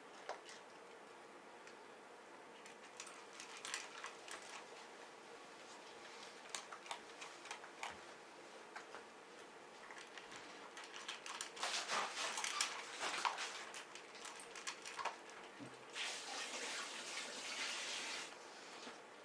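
Small dog eating from a bowl: scattered small crunching and licking clicks, busiest about twelve seconds in. About sixteen seconds in there is a two-second rushing hiss.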